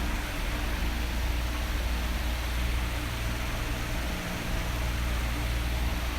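Electric fan running steadily: an even whooshing hiss over a low hum.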